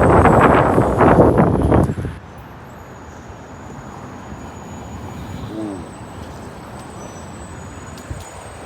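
Wind buffeting the microphone during a ride, cutting off abruptly about two seconds in and leaving faint outdoor traffic noise.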